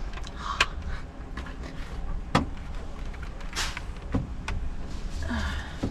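Lorry engine idling with a steady low rumble, under several sharp clicks and knocks and a short hiss about three and a half seconds in.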